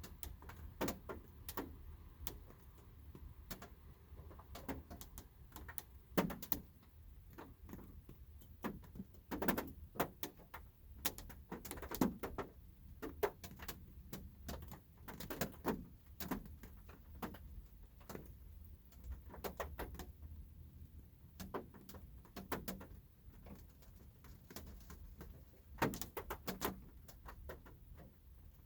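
Light rain heard from inside a car: scattered drops tap on the roof and glass at uneven intervals, over a steady low rumble.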